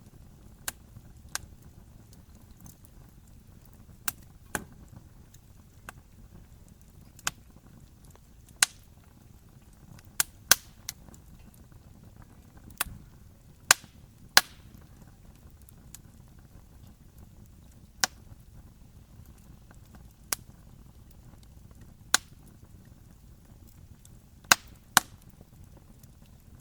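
Wood fire crackling: sharp pops and snaps at irregular intervals over the low, steady rush of the flames.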